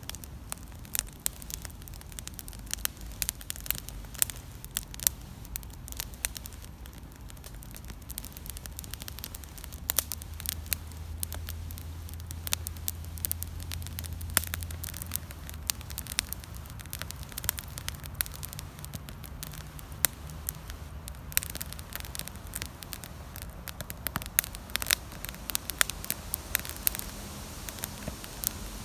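Campfire burning, wood crackling and popping in irregular sharp snaps over a steady hiss. A faint low drone sits in the background for several seconds near the middle.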